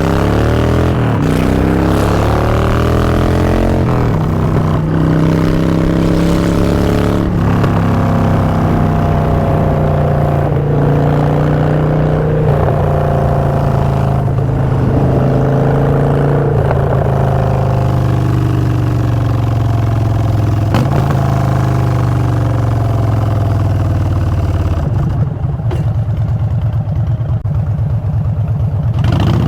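2016 Harley-Davidson Street Bob's Twin Cam 103 V-twin running through Vance & Hines Short Shots exhaust while riding: the revs climb and drop back again and again as it pulls through the gears. About 25 s in it falls to a slower, uneven low beat at lower revs.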